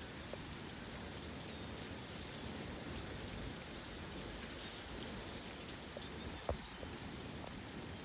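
Steady rain falling in a storm, an even hiss of water, with a single sharp knock about six and a half seconds in.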